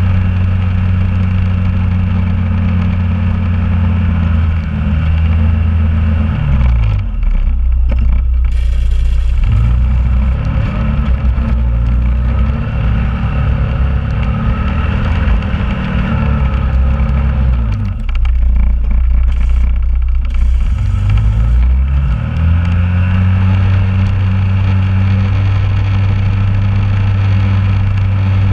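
2001 Honda Rubicon ATV's single-cylinder engine running. Its note drops about six seconds in, stays lower and uneven, then rises back up near twenty-two seconds.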